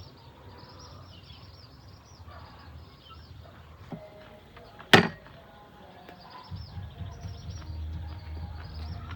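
A single sharp knock about halfway through, over a steady low hum and faint bird chirps.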